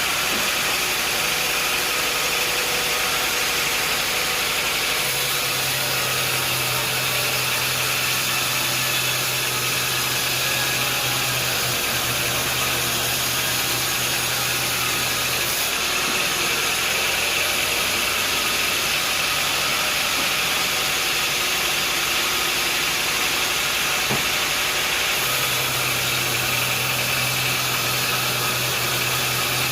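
Sawmill machinery running steadily, a continuous mechanical din with a low hum that sets in about five seconds in, drops out midway and comes back near the end.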